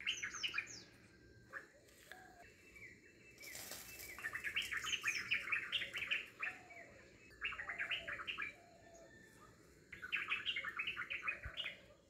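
A small bird chirping in quick runs of high notes, in four bursts, the longest about three seconds.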